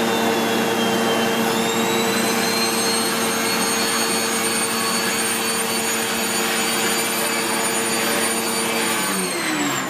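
SEBO X4 Extra upright vacuum cleaner running steadily, a motor hum with a high whine over it. About nine seconds in it is switched off and the motor winds down, its pitch falling.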